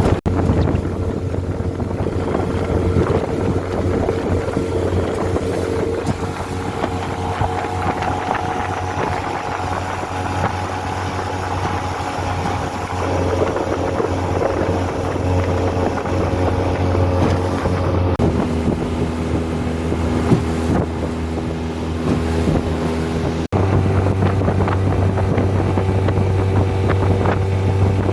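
Honda 20 hp four-stroke outboard running steadily on a small aluminum boat, with wind on the microphone. The engine note shifts in pitch three times, about 13, 18 and 23 seconds in, with a brief dip just before the last change.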